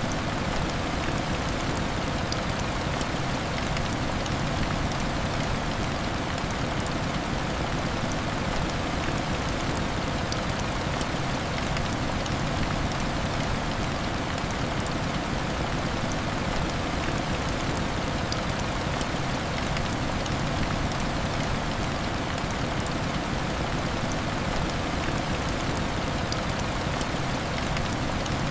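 Heavy rain falling steadily on window glass: an even, unbroken hiss with fine patter of drops.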